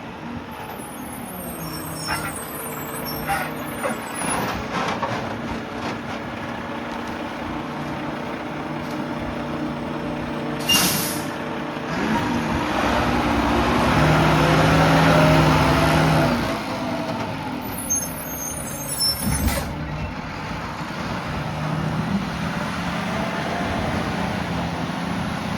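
Mack LR garbage truck with a McNeilus Meridian rear loader at work, its diesel engine running. There are a few knocks between two and five seconds in and a sharp air brake hiss about eleven seconds in. The engine then revs up for several seconds, the loudest part, as the hydraulic packer cycles, and a second burst of air comes about nineteen seconds in.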